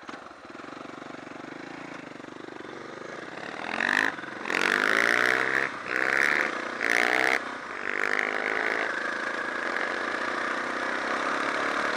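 Suzuki DR650 single-cylinder motorcycle engine pulling on the move. About four seconds in, the engine note climbs several times in short rising surges about a second apart, then settles into a steadier run.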